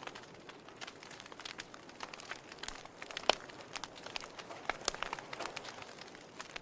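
Wood fire crackling in a fireplace: irregular sharp pops and snaps over a soft hiss of burning logs, with one louder pop a little past the middle.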